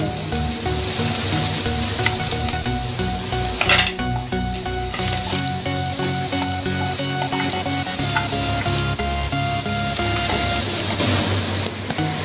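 Garlic, cashews and dried red chillies sizzling as they fry in butter in a pan, stirred with a wooden spatula, with a brief louder scrape about three and a half seconds in.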